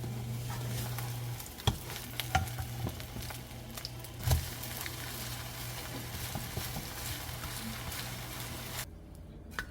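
Saebal-namul jeon (sea-vegetable pancake) batter frying in oil in a pan with a steady sizzle, broken by a few sharp knocks of a utensil on the pan. The sizzle cuts off suddenly near the end.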